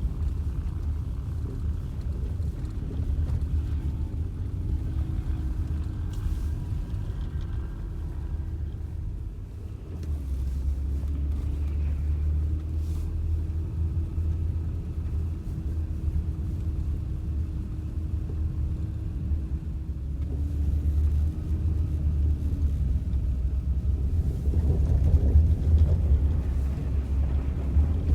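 A motor vehicle's engine running with a steady low rumble, its pitch shifting now and then.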